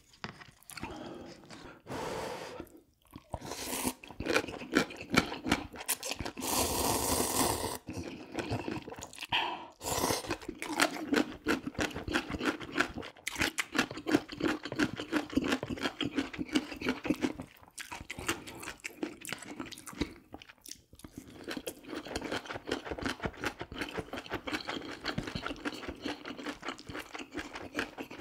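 Close-miked chewing and crunching of food, dense with quick small clicks, with a louder noisy stretch of about a second and a half about six seconds in.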